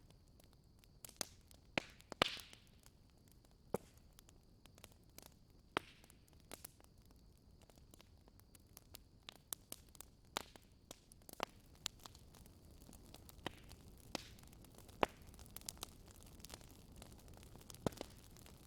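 Wood fire in a fireplace crackling: sharp pops and snaps at irregular intervals over a faint steady hiss, the loudest pop about two seconds in.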